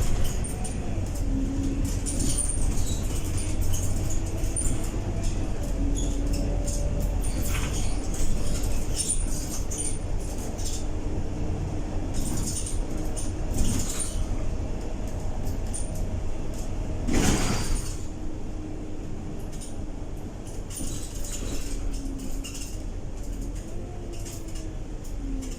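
Scania K230UB bus under way, its diesel engine droning with the pitch rising and falling as the ZF six-speed automatic gearbox shifts, with scattered rattles. A brief hiss about 17 seconds in.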